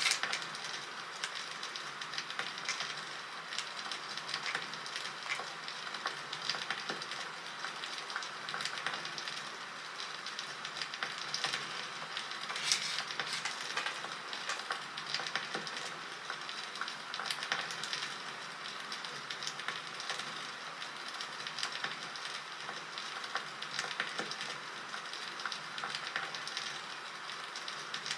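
Wood fire crackling steadily with small pops and snaps, a sharper pop at the start and another about halfway through; a bonfire sound effect.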